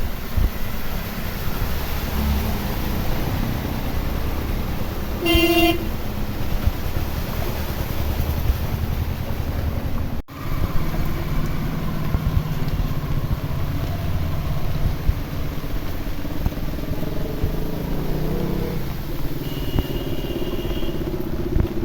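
Street traffic with engines running, and a vehicle horn tooting once for about half a second about five seconds in. A short high-pitched beep sounds near the end.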